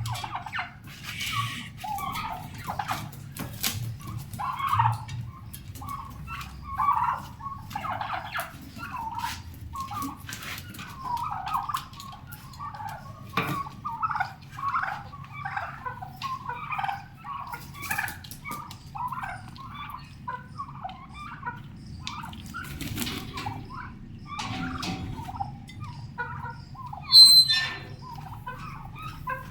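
A group of young domestic turkeys calling over and over in short notes, mixed with scattered sharp clicks, and one loud high-pitched call near the end.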